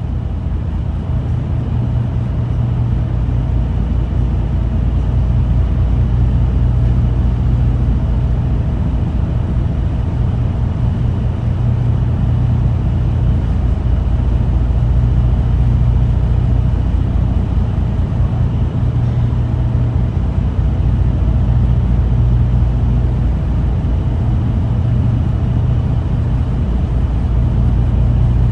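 Steady low drone of the ferry Naoshima's engines under way, with the rushing wash of its wake.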